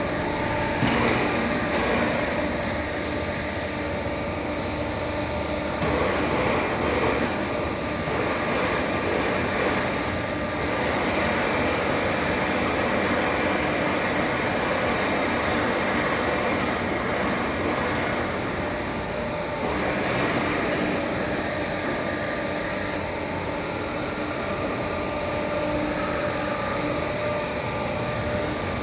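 Vertical lathe running in a machine shop: a steady mechanical hum with a few held tones, and a thin high whine that comes and goes.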